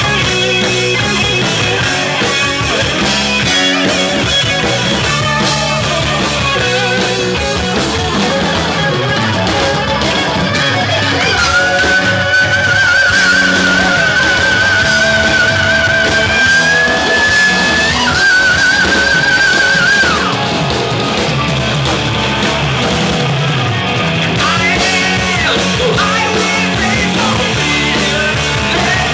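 Heavy metal band playing live: distorted electric guitars, bass and drums with singing. A long high note with wide vibrato is held for about eight seconds in the middle.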